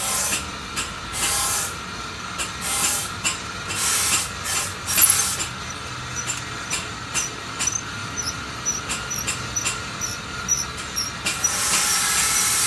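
Short bursts of hiss, about one a second, for the first five seconds or so. Then a run of small clicks with faint high chirps, and a steady hiss from near the end.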